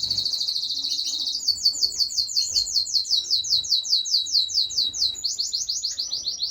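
Small cage finches chirping, one bird giving a long, rapid run of high chirps at about six notes a second.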